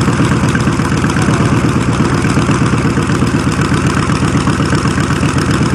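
Fuel-injected Chevy 350 small-block V8 in a 1992 Buick Roadmaster idling loudly through a modified exhaust, with a steady, fast exhaust pulse, shortly after a cold start.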